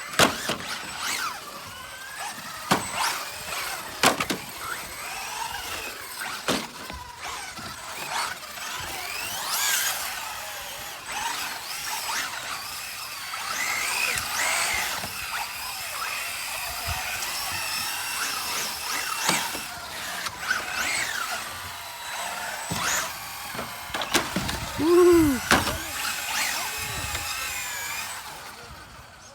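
Electric RC cars' motors whining, rising and falling in pitch as they speed up and slow down, with sharp knocks from the cars landing and hitting.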